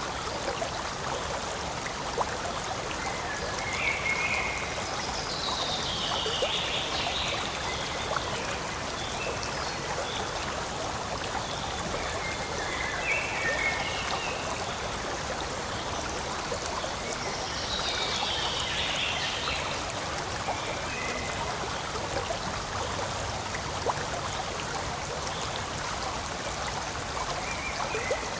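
Forest stream flowing steadily, a continuous rushing trickle of water. Twice over it comes a brief higher-pitched phrase that falls in pitch.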